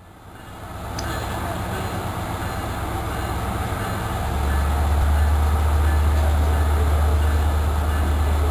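Passenger train running, heard from a coach window as it pulls out of the station. The steady rattle and rumble of the train grows louder over the first second, and a deep rumble joins it about four seconds in.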